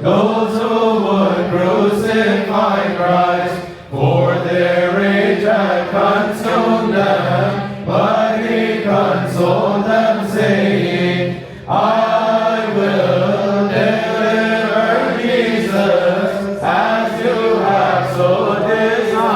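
Malankara Orthodox liturgical chant sung by voices in sustained phrases, with short pauses between phrases about every four seconds.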